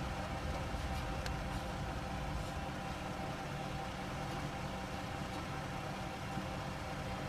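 Steady machine hum with a faint constant tone, with no tool strikes or clicks standing out.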